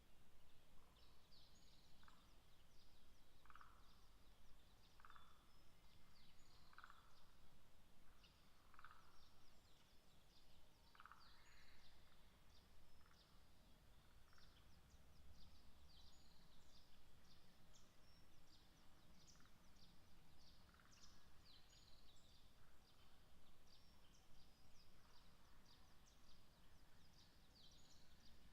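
Faint dusk woodland ambience: a run of short calls repeated about every second and a half for the first twelve seconds or so, over many thin, high chirps that go on throughout.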